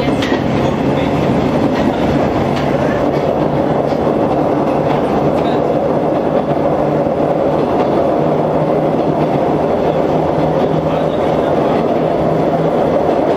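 Inside a JR 103 series electric train's motor car (MoHa 103-3501) running at steady speed: a steady hum of traction motors and wheels on rail, with a few clicks of wheels over rail joints near the start.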